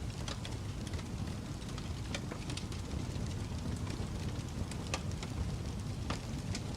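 Wood fire burning in a fireplace: a steady low rumble of flame with scattered sharp crackles and pops, about half a dozen standing out.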